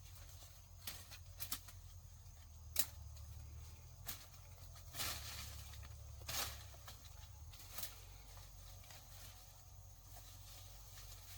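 Irregular sharp clicks and snaps, roughly one every second or so, some with a short rustle after them, over a steady low hum.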